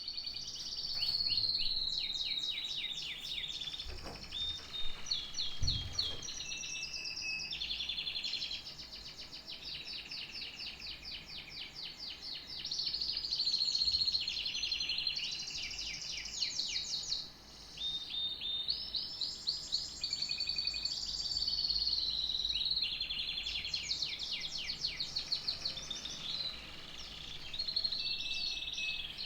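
Domestic canary singing a long, continuous song of rapid trills, rolls and whistled glides, with a brief pause partway through.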